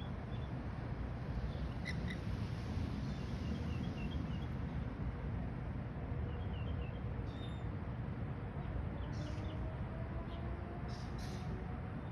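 Monk parakeets (Quaker parrots) giving faint, high, squeaky chirps, with a few short harsher calls in the second half, over a steady low background rumble.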